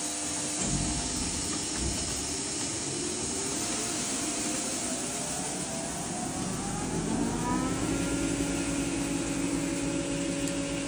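Electric corn-grinding mill running, a steady loud whir. Its tone rises over several seconds around the middle, then holds steady.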